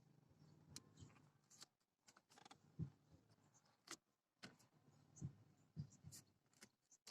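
Faint, dull thuds, a few of them, with light clicks, from a Chevrolet Aveo's front suspension as the steering is turned. This is the knock that the owner traces to a dry ball joint in a stabilizer link.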